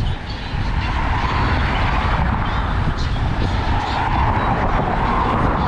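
Wind rumbling steadily on a bike-mounted action camera's microphone while cycling, with a fainter wavering mid-pitched sound above it.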